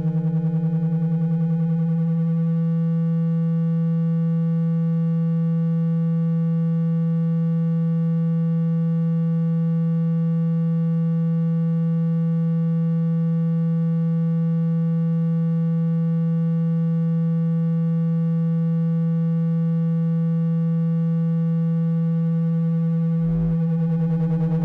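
Steady low electronic tone with a stack of overtones, a water-ejection vibration sound meant to shake water out of a phone speaker. A brief low thump comes shortly before the end.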